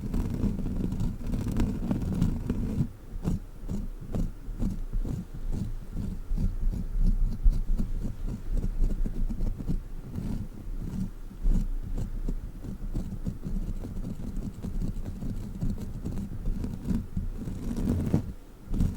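Sticky crawler toy handled and pulled close to the microphone, giving a run of irregular muffled low thuds and short sticky crackles.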